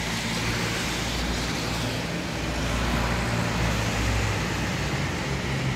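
Heavy rain falling steadily, a continuous even hiss, with a low steady hum underneath.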